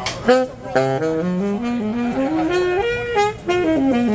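Saxophone playing a jazz phrase during a sound check: short separate notes that climb step by step through the middle and fall back to a lower note near the end.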